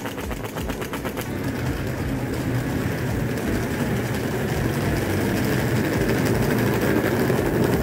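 Steady rumbling vehicle noise that grows slowly louder.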